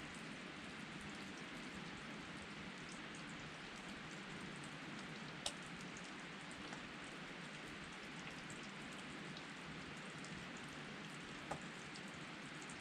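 Steady rush of a flowing river, with small ticks and two sharper pops from a wood campfire, about halfway through and near the end.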